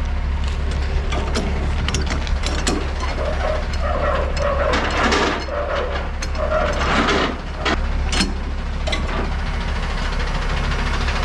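Semi-truck engine idling while a trailer is unhooked: repeated metallic clicks and clanks, with short bursts of hiss about four and seven seconds in.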